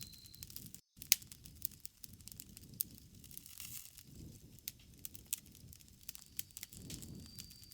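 Campfire crackling: irregular sharp pops and snaps of burning wood over a low rumble of the flames.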